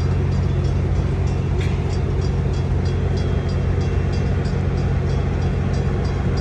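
Amtrak train with an F59PHI diesel locomotive running at the station, a steady low drone. Over it, a fast, even ringing or ticking repeats a few times a second.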